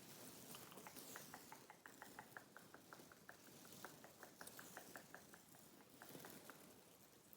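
Faint close-miked ASMR mouth sounds: a steady run of small wet clicks, several a second.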